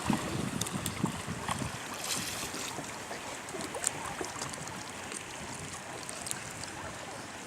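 Seawater splashing and lapping around a kayak, with small irregular splashes and a brief brighter splash about two seconds in, under light wind noise on the microphone.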